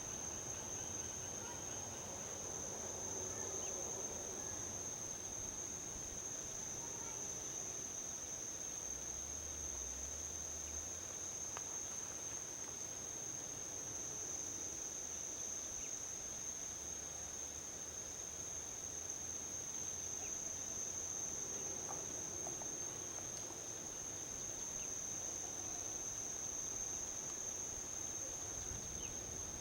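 Steady, high-pitched chirring chorus of insects in a forest, over a faint low hum of highway traffic that swells gently now and then.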